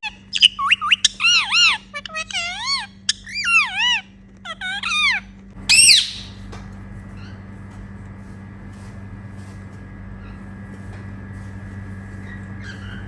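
Indian ringneck parrots calling: a quick run of wavering chirps and squawks for about six seconds, ending in one loud, harsh screech. After that only a low steady hum remains.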